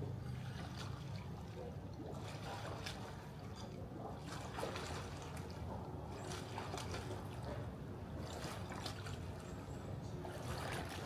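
Swimming-pool water splashing and lapping in irregular splashes, over a steady low hum.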